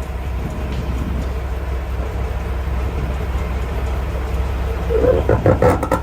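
Semi-truck diesel engine idling with a steady low hum. About five seconds in comes a short run of knocks and clanks, the loudest sound here.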